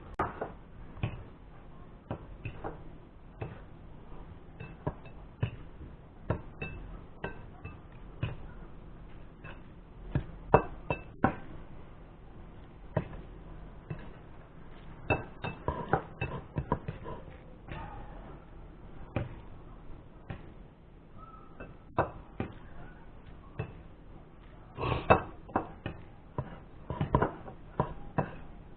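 Irregular sharp clicks and knocks, like small hard objects being handled or tapped, coming singly and in short clusters about halfway through and near the end, over a low steady hum.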